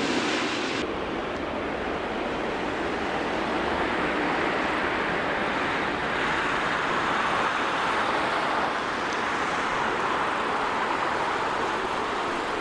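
Jet airliner engine noise at an airport: a steady rushing roar that swells a little in the middle and eases off near the end.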